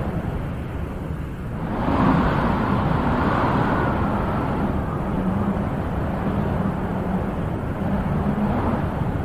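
Wind blowing in gusts, a steady low rush that swells into a stronger gust about two seconds in.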